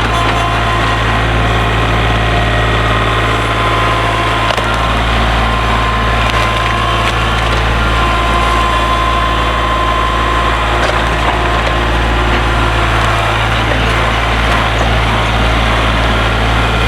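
Kubota tractor engine running steadily, with wood cracking and splintering as the grapple handles fallen trees and branches.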